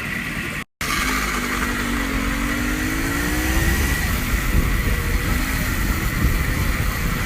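Babetta moped's small two-stroke engine pulling away, its pitch rising steadily for about three seconds after a brief dropout, with wind rumbling on the microphone.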